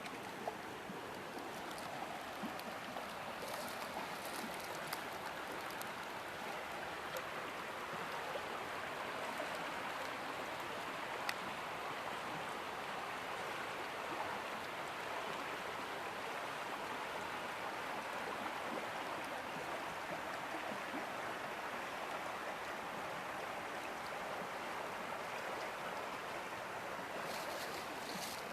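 River water flowing and rushing, a steady even hiss of moving water.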